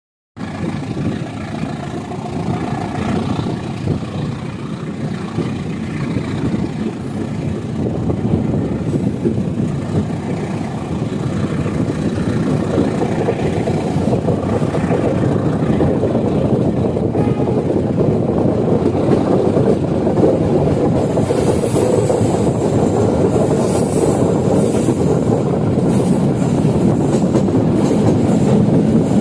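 Train rolling along the track, its wheels clattering steadily and growing gradually louder. From about two-thirds of the way in, a high, irregular metallic squeal and rattle joins the rumble.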